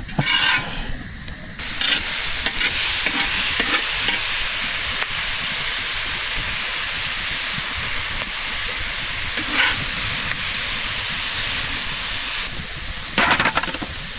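Chicken, capsicum and onion sizzling on a steel plate over a campfire, a steady hiss that comes in suddenly a second and a half in, with a few short louder sounds over it.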